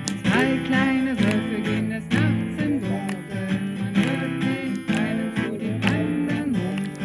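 Singing to a strummed acoustic string instrument, a campfire-style song with a steady strummed rhythm.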